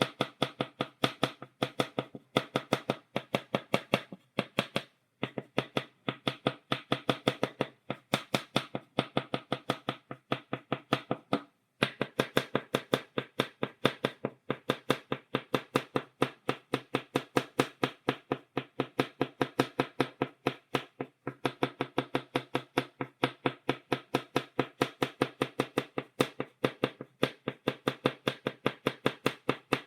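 Chalk tapping on a blackboard, dotting in quick, steady taps several times a second, with a few short pauses.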